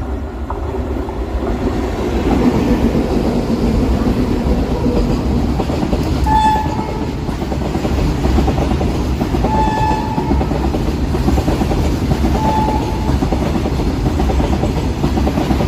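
A pair of WAG-9HC electric freight locomotives hauling a goods train past, with a steady rumble and wheels clattering over the rail joints. The locomotives' twin-tone horn sounds briefly a few times over it.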